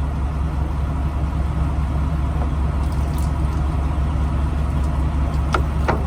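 Semi truck's diesel engine idling steadily, a constant low hum, with two short clicks near the end.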